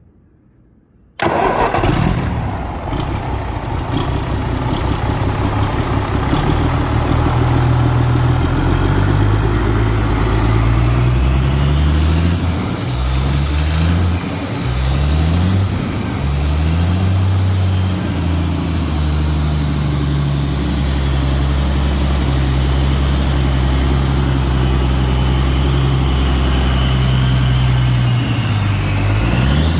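MAN D2866 LF09 inline-six diesel engine starting about a second in, then running with the revs raised and dropped several times before settling to a steady idle. Near the end the revs dip and climb again briefly.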